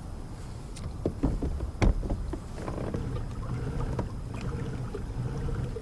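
Gear being handled in a kayak: several knocks and clicks against the hull, the loudest just before two seconds in, over a low steady rumble.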